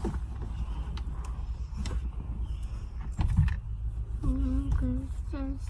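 Low steady rumble, as of a car idling, with a few sharp clicks and knocks. Short wordless voice sounds come in near the end.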